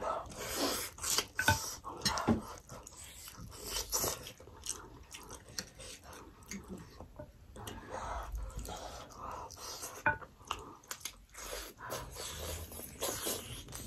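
Close, wet chewing and lip smacks from people eating steamed mutton momos, with many short, irregular mouth clicks.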